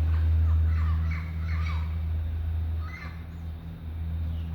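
Short, descending chirping animal calls, a quick run of them in the first two seconds and another about three seconds in, over a steady low hum.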